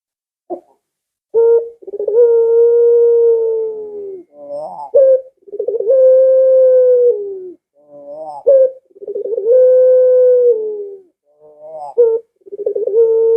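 Barbary dove (puter, long-cooing pelung type) cooing loudly, about four phrases. Each is a quick stuttering lead-in followed by one long, drawn-out coo of about two seconds, repeating roughly every three and a half seconds.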